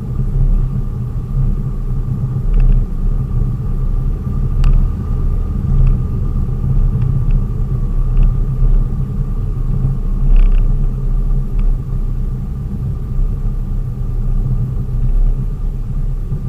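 A vehicle driving along a road: a steady, loud low rumble of engine and road noise, with a few faint ticks.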